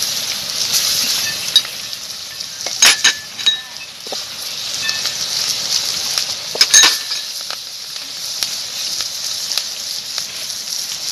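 Onion-tomato masala frying in a metal pan over a wood fire, with green chillies and curry leaves just added. It sizzles steadily while a steel spoon stirs it, clinking against the pan about three seconds in and again near seven seconds.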